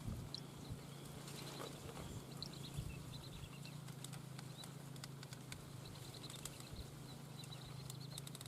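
Faint, high bird whistles in short runs of quick notes, over a steady low hum and scattered small clicks.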